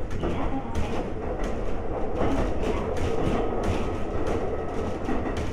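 Running sound inside a Konan Railway 7000-series electric motor car (DeHa 7155, ex-Tokyu 7000) under way: a steady rumble, with the wheels clicking over rail joints about twice a second.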